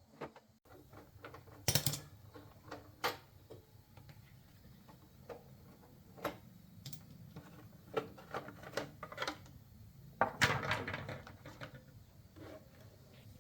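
Irregular clicks and clinks of metal tools and parts being handled during motorcycle repair work, with a denser clatter about ten and a half seconds in. A low steady hum runs underneath.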